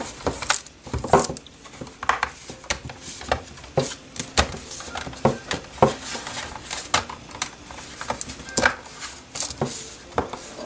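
Plastic drone body shell halves being handled and fitted together: a scatter of irregular light clicks, taps and knocks of hard plastic.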